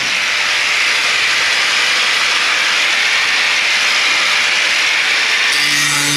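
A loud, steady hiss with no motor note in it, cut off about five and a half seconds in as a power saw starts running again.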